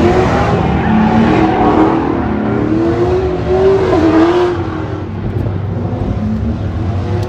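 Drift car's engine revving hard, its pitch rising and falling again and again, over a loud hiss of tyre noise.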